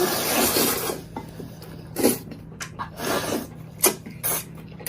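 A person slurping noodles: one long noisy slurp lasting about a second, then several shorter slurps.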